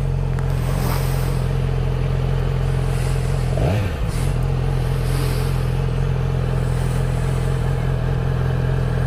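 Honda Grom's single-cylinder engine running steadily under way, still on its stock exhaust. A little under four seconds in, the engine note briefly changes pitch, then settles back to the steady note.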